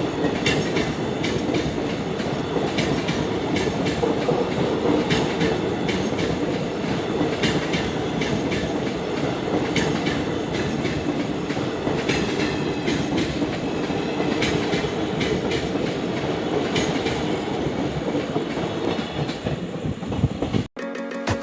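Train wheels running over rail joints: a steady rumble with a rapid, irregular clatter of clicks, which cuts off abruptly near the end.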